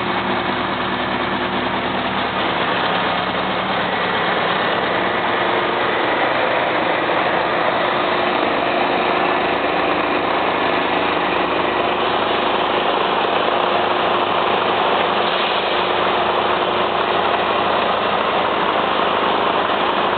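Scania truck diesel engine running steadily, a little louder after the first few seconds.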